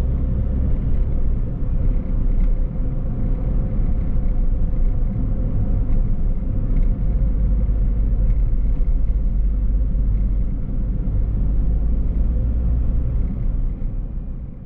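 A car driving along: a steady low rumble of road and engine noise that fades out near the end.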